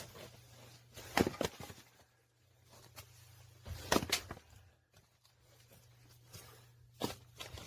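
Three sharp knocks about three seconds apart, each a quick double hit: an axe striking firewood.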